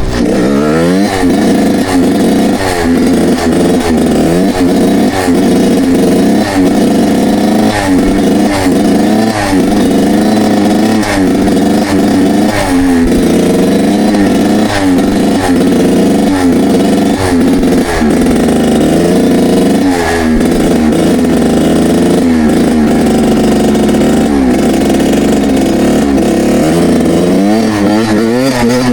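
Suzuki two-stroke dirt bike engine running hard, its pitch rising and falling every second or two as the throttle is worked.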